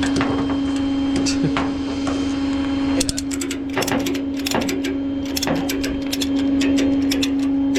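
Ratchet tie-down strap on a tow truck being cranked tight over a tyre: a fast run of ratchet clicks starting about three seconds in, with a few heavier strokes. A steady mechanical hum from the running truck goes on underneath.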